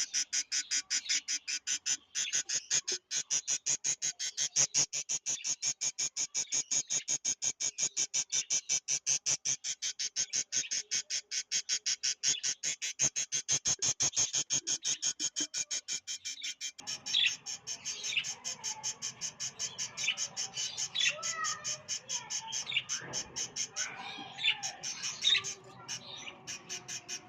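A fast, even, high trill of about eight pulses a second at first. After about seventeen seconds it gives way to lovebirds chirping in short, irregular squeaky calls over a noisier background, with the trill still faintly behind.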